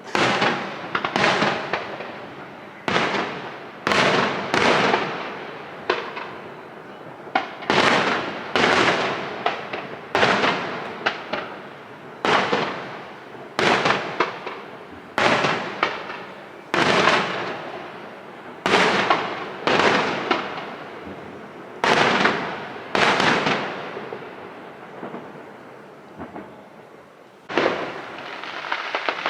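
Aerial firework shells bursting in quick succession, about one sharp bang every second or two. Each bang has an echo that fades away before the next, with a brief lull near the end.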